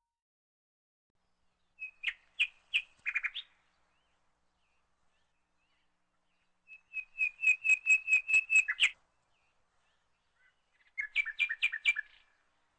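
A bird chirping in three bursts of quick, evenly repeated high notes, about two, seven and eleven seconds in; the middle burst is the longest.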